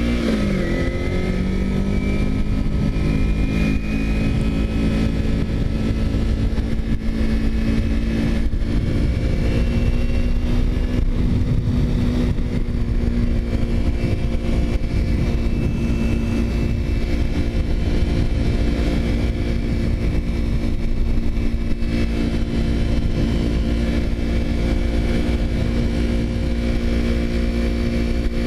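Motorcycle engine running at a steady cruise under heavy wind rumble, most likely the 2009 Kawasaki Ninja 250R's parallel-twin. Its pitch drops in the first second, then holds steady.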